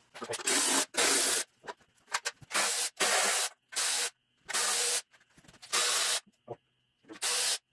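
Compressed-air tool fired in about eight short hissing bursts of roughly half a second each, with brief pauses between them, as the valve cover bolts are run out.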